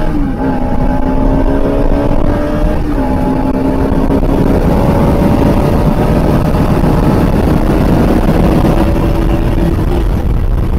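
Motorcycle engine accelerating hard. Its pitch dips at an upshift near the start and again about 3 s in, then climbs steadily through the gear, with wind rumbling on the helmet-mounted microphone.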